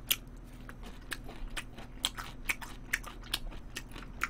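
A person chewing and smacking a mouthful of galbijjim (braised short ribs) close to the microphone: irregular short mouth clicks, a few a second.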